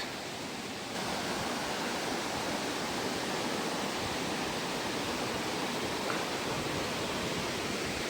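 Steady rush of a fast, rocky river's water, a little louder from about a second in.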